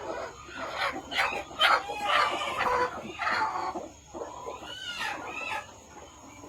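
Several chickens clucking and calling over one another, loudest in the first half, with a few arching calls about five seconds in.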